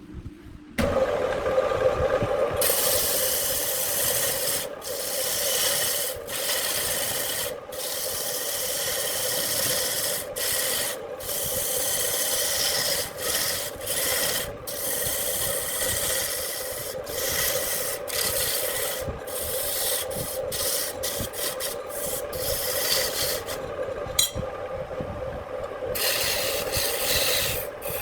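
Wood lathe running with a steady hum while a tool scrapes and cuts the spinning wood in a continuous rasping noise. The noise drops out for short moments many times as the tool comes off the work, with a longer lull near the end.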